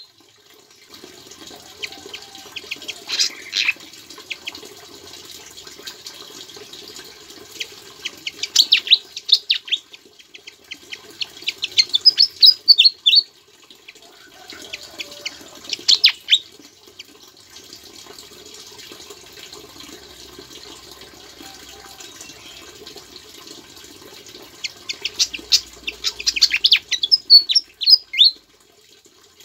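Sikatan jawa songbird singing in five bursts of quick, high chirps and trills, with its song including mimicked ciblek (bar-winged prinia) phrases, over a steady water-like hiss. The longest burst comes near the end.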